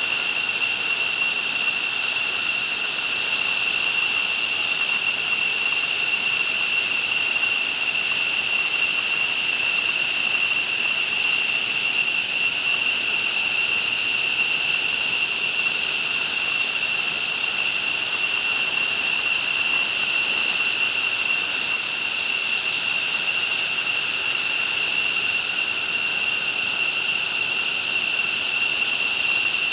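F-15 fighter's jet engines running steadily on the ground, a loud high-pitched whine over a rushing hiss that holds one pitch throughout.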